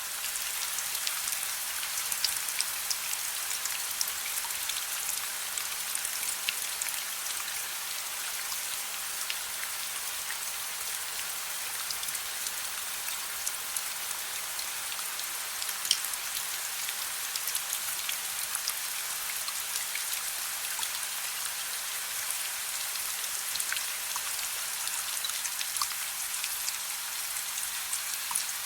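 Soft, steady rain: an even hiss with many individual drops ticking on a surface, and one sharper drop about halfway through.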